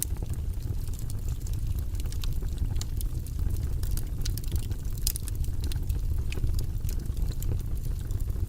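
Wood fire burning in a fireplace: a steady low rumble with irregular crackles and pops throughout, a sharper pop about five seconds in.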